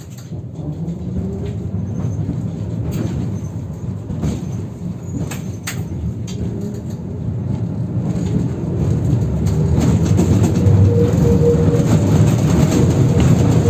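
A 71-608KM tram running, heard from inside the car: a steady rumble and rattle on the rails with a few sharp knocks, getting louder as it picks up speed, and a rising motor whine in the second half. The track on this route is badly worn.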